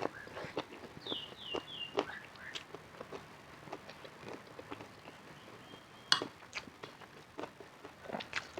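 Close-miked eating sounds: chewing and lip smacks with scattered sharp clicks. About a second in there is a run of three short high squeaks.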